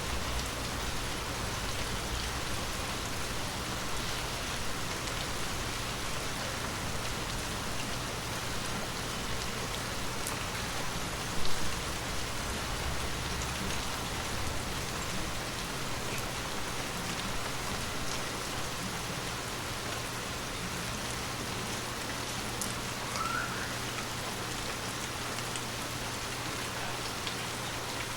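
Steady rain falling and pattering on surfaces, an even hiss throughout, with one brief louder thump a little before the middle.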